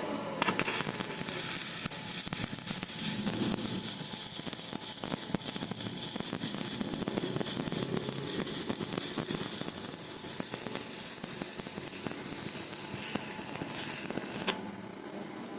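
Stick-welding arc crackling and sizzling steadily as a bead is run. It strikes abruptly about half a second in and breaks off near the end.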